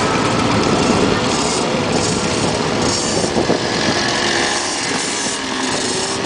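A procession of vintage motorcycles going past with their engines running, a steady mix of engine notes that shift in pitch.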